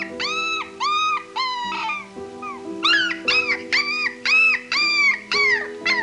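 Spotted hyena cubs whining: a rapid series of short high-pitched calls, about two a second, each rising and falling in pitch, over soft piano music.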